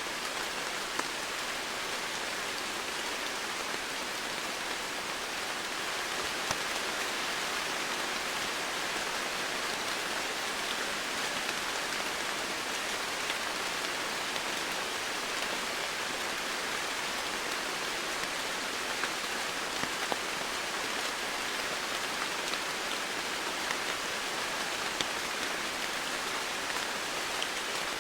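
Steady rain falling on foliage, an even hiss with scattered individual drops ticking through it.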